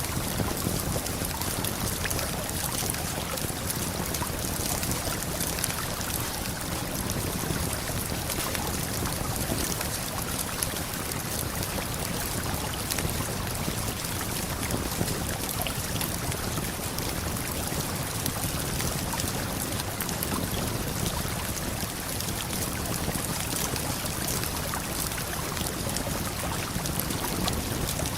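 Waterfall and river water rushing steadily, with the small, frequent crackles of a campfire scattered over it.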